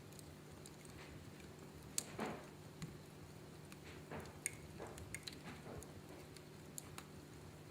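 Wood fire crackling in a fireplace: scattered, irregular sharp pops and snaps, the loudest about two seconds in, over a faint steady low hum.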